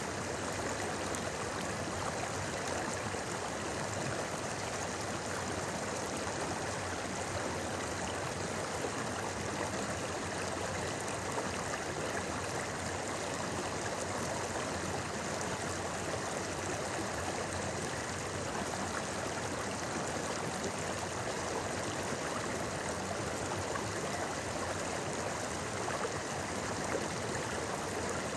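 A river's shallow stream babbling steadily, an even rush of running water with no breaks.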